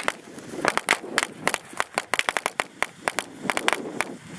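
A string of firecrackers going off: rapid, irregular sharp cracks, several a second.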